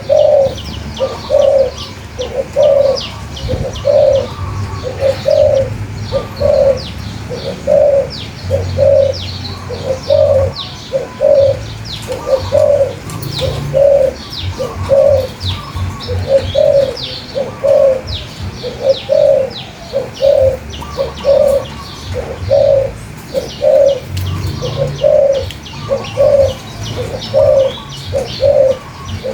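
Birds singing: a low note repeated very evenly, about three times every two seconds, under a steady stream of quick high chirps.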